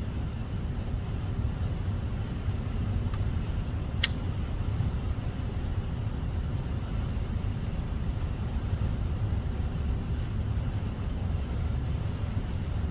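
Steady low rumble of background noise, with one short sharp crack about four seconds in.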